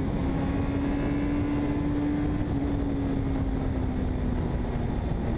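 Honda CB650F's inline-four engine running at a steady speed: one held engine note that rises a little, then eases down slightly in the second half, over a constant rush of noise.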